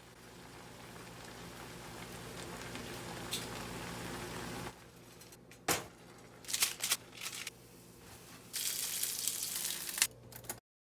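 Stovetop cooking: a steady hiss that slowly builds for about five seconds, then a few sharp clatters of kitchenware, then another short burst of hissing near the end.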